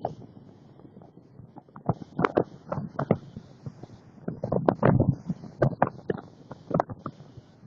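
Irregular short knocks and thumps, clustering most densely about two-thirds of the way through.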